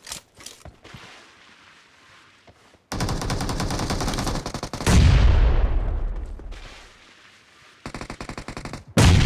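Video-game gunfire: a few single shots, then long bursts of rapid automatic fire, with a louder, deeper blast about five seconds in that dies away over a couple of seconds, and another burst of automatic fire near the end.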